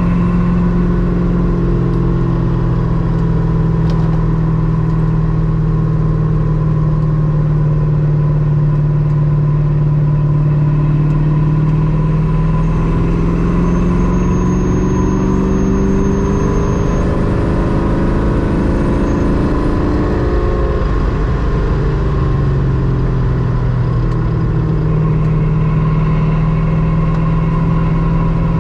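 Ultima RS's GM LS7 V8 engine running under steady driving, its note climbing a little about twelve seconds in and dropping back around twenty seconds in as the throttle is eased.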